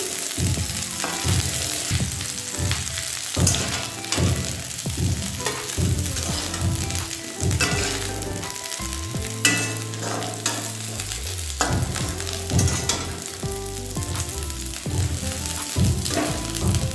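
Jackfruit pieces sizzling in hot mustard oil in an aluminium kadhai, with a metal spatula repeatedly scraping and knocking against the pan as the pieces are scooped out.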